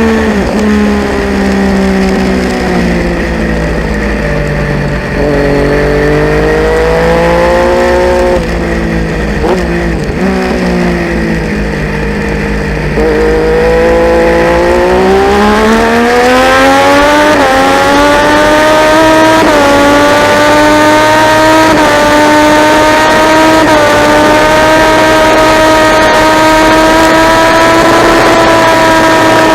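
Triumph Daytona 675 inline-three engine at racing pace. Revs fall off with downshifts through the first few seconds, stay low through a slow stretch, then climb hard from a little under halfway, with quick upshifts about every two seconds, before holding steady at high revs near the end.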